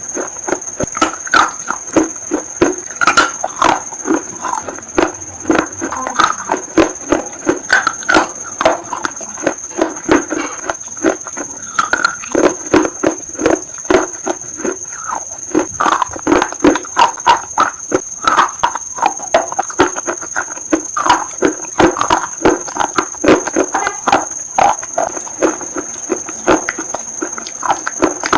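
Close-miked eating: rapid, irregular crunching and chewing with wet mouth clicks, several a second. A steady thin high-pitched whine runs underneath.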